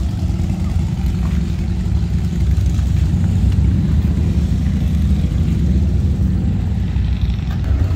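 A vehicle engine running at a steady speed with a continuous low rumble, as while driving along.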